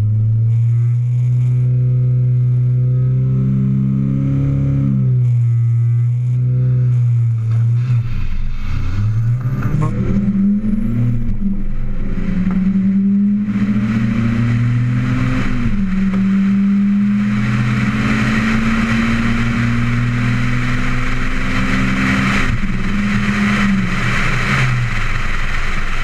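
Honda Civic hatchback with a stock JDM GSR four-cylinder making a drag-strip pass. The engine is held up in revs at the line, then launches about eight seconds in and climbs through the gears with clear shift dips, while wind and road rush builds. The engine note falls away near the end as the throttle comes off.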